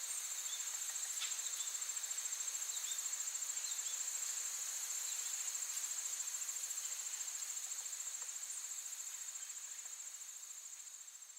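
Insects trilling steadily in a high, fast-pulsing drone, with a few faint short chirps over it; the trill fades near the end.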